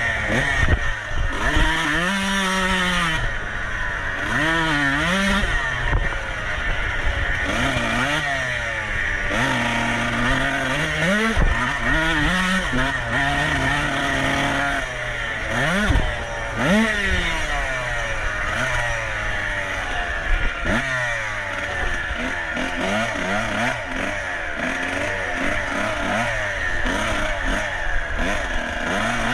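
Dirt bike engine racing, its pitch rising and falling again and again as the throttle is opened and closed.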